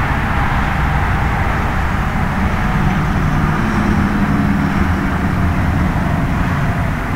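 Steady road traffic noise: vehicles going by with a low engine drone and tyre noise.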